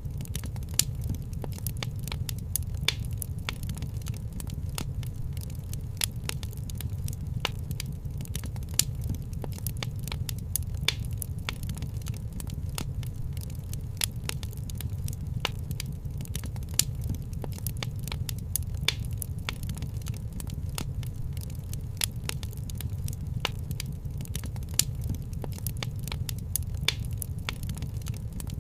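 Wood fire crackling in a fireplace: a steady low rumble of the flames under a dense run of small snaps, with a louder pop every couple of seconds.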